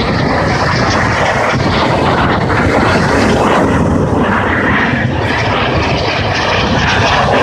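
A fixed-wing airplane's engine, a loud steady noise as the plane flies past.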